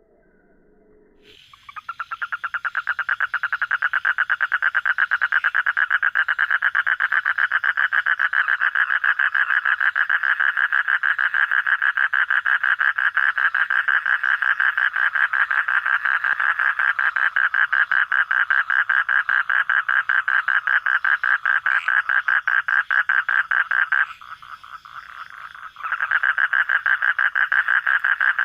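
A frog calling loudly and close by, a fast continuous pulsed trill that starts about two seconds in. It breaks off for about two seconds near the end, then resumes.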